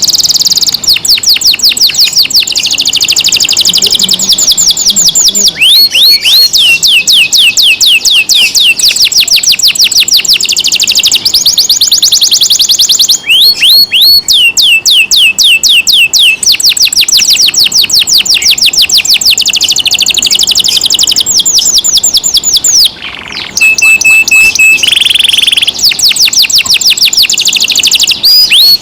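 Domestic canary singing loudly in long rolls of rapid, repeated notes, switching to a new phrase every few seconds. About 23 seconds in there is a brief break, then a steady held note before the rolls resume.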